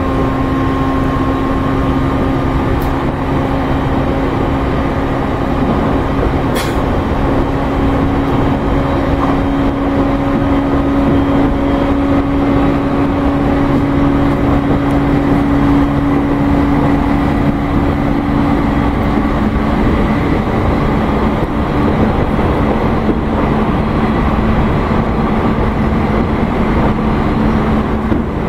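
Interior running noise of a JR East E531 series electric commuter train at speed: a steady rumble of wheels on rail with a low, steady hum that shifts slightly lower about two-thirds of the way through. There is one sharp click about six seconds in.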